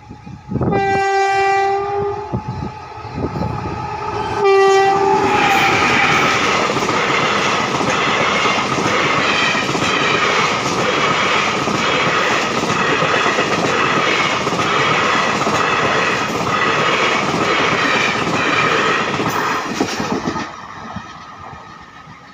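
Passenger train running at about 130 km/h. The locomotive's horn gives one long blast, then a short second blast a few seconds later. The coaches then pass close by with a steady rush and a regular clatter of wheels over rail joints, which fades near the end.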